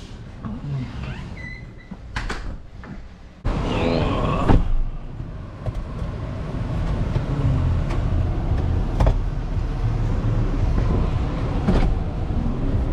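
A few knocks and clicks, then, about three and a half seconds in, a vehicle running starts suddenly and goes on as a steady low rumble.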